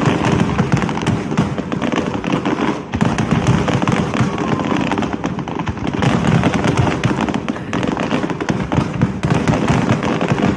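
Large fireworks display: many shells bursting in quick succession, making a dense, unbroken run of bangs and crackle.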